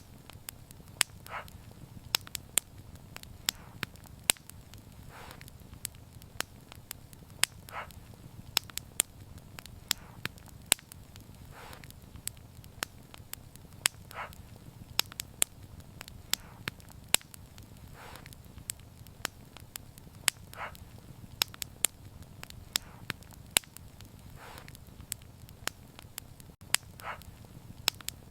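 Wood fire crackling: sharp, irregular pops and snaps over a low, steady rumble of the flames, with a soft hiss coming and going every few seconds.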